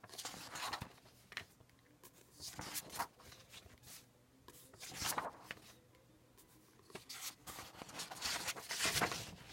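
Paper rustling in irregular bursts, from book pages being handled and turned, with soft pen-on-paper scratching as typos are marked.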